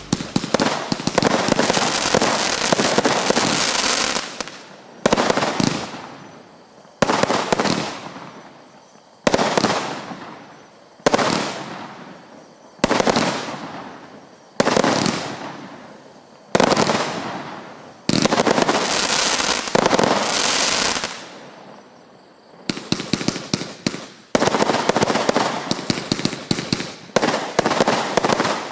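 Lesli 'Hurricane Force' firework battery firing. It opens with a dense crackling volley, then single shots about every two seconds, each followed by a fading rush of noise, and ends in a long run of rapid crackling.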